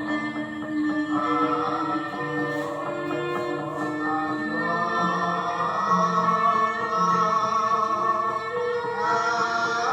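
Javanese gamelan music accompanying a classical dance, with held metallophone notes and singing over them.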